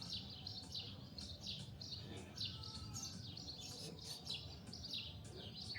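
Several wild birds chirping and singing in quick, repeated short notes, over a low rumble of wind or outdoor noise.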